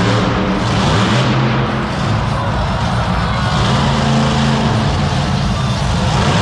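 Monster truck engine running loud in an arena, its pitch rising and falling as it revs, over dense steady noise.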